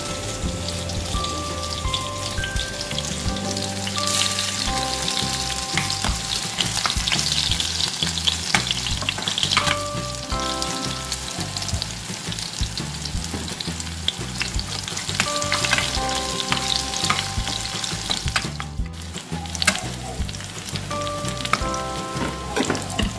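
Eggplant and garlic sizzling as they fry in oil in a pan, with a metal spatula clicking and scraping against the pan as they are stirred.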